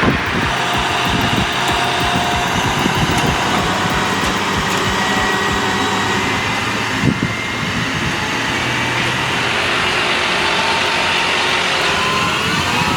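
Heavy truck engines running steadily, with a few faint whining tones over the engine noise and a brief knock about seven seconds in.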